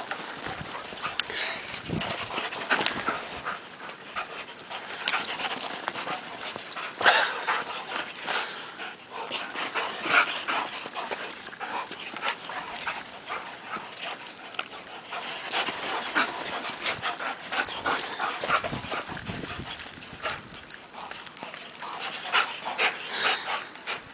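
Greyhounds panting and playing in snow, with many short, irregular scuffling sounds.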